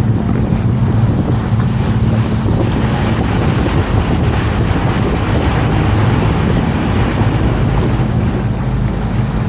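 Canal tour boat's motor running steadily with a low hum, and wind buffeting the microphone over the wash of water.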